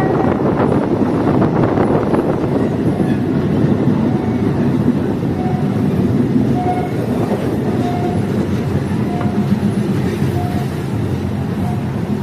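Diesel multiple-unit train running along the track, a steady rumble of engine and wheels on rail. Faint short tones recur about every second and a quarter in the second half.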